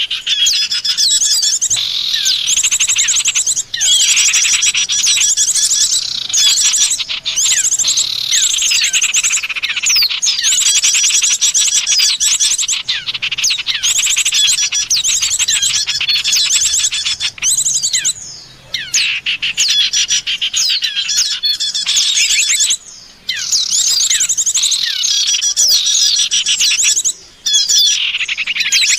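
Dense, rapid chirping and trilling of small songbirds, several calls overlapping, played as a loud recorded bird-lure call with a few short breaks.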